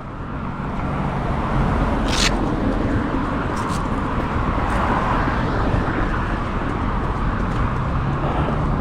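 Steady road traffic noise outdoors, with a brief hiss about two seconds in.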